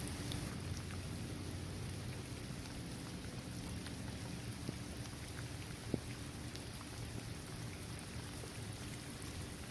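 Steady rain falling on a basketball court, trees and grass: an even hiss with scattered single drops ticking, one sharper drop about six seconds in.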